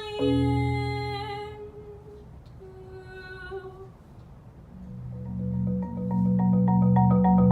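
Solo marimba with the player's singing voice. A held sung note over a low marimba roll fades out, a short soft phrase follows, then low rolled marimba notes build from about five seconds in with repeated mallet strokes above them.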